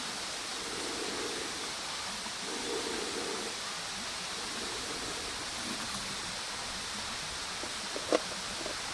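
Bonfire burning with a steady rushing hiss and a single sharp pop about eight seconds in.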